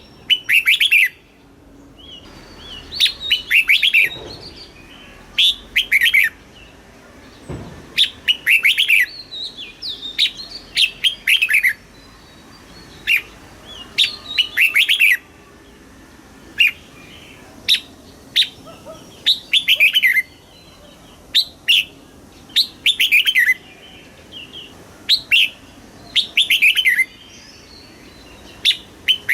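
Red-whiskered bulbul singing: short, quick chirping phrases repeated every second or two, with brief pauses between them.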